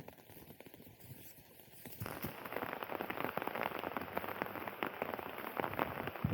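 Heavy rain pattering on surfaces, a dense crackle of drops that gets abruptly louder about two seconds in.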